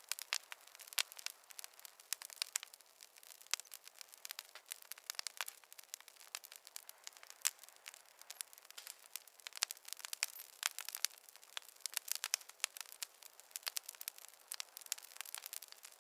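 Fireplace fire crackling: a dense, irregular run of sharp pops and snaps, many a second, with a few louder snaps scattered through.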